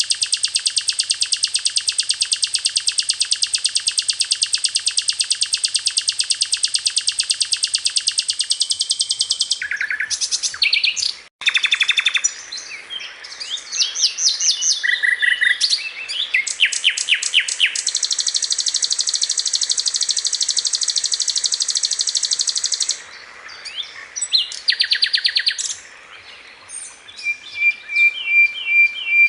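A sikatan londo (flycatcher) songbird singing. It gives a long, very fast trill for about nine seconds, then a run of varied short chirps and whistles, a second long trill in the middle, and a quick, evenly repeated note near the end.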